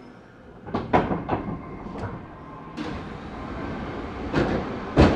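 Electric commuter train running over rail joints. Irregular sharp wheel clacks, the loudest about a second in and again near the end, over a rumble that grows steadily louder.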